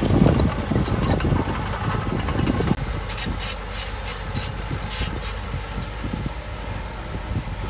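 Heavy earthmoving machine's diesel engine running, louder through the first three seconds and then easing off. In the middle comes a quick run of sharp high clicks, about four a second.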